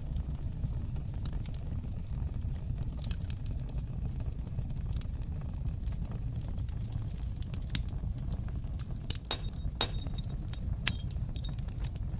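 Fire in a fireplace crackling, with a steady low rumble of flames under scattered sharp pops and clicks. The pops come thicker in the last few seconds, with one louder snap near the end.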